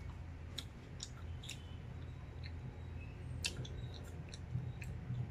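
Close-up chewing of juicy pineapple: scattered wet mouth clicks and smacks, over a low steady hum.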